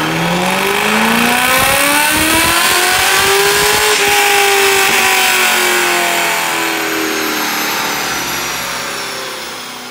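1998 C5 Corvette's LS1 V8, with a Thunder Racing TR224 cam, Kooks long-tube headers and a catted X-pipe, making a full-throttle pull on a chassis dyno. The engine note climbs steadily for about four seconds, then the throttle closes and the revs wind down slowly as the rollers coast.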